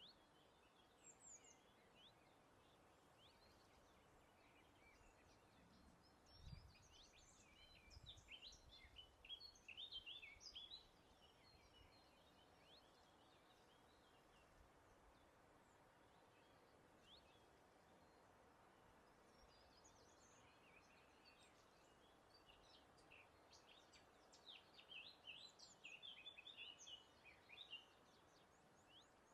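Faint songbirds chirping in quick high notes, in two bouts: one about six seconds in and another near the end, over a soft steady breeze.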